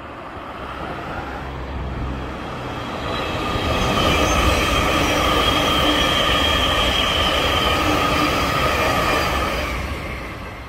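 An electric multiple-unit passenger train passing at line speed. The rumble of wheels on rail builds up, holds loud for several seconds with a steady high whine over it, and dies away near the end.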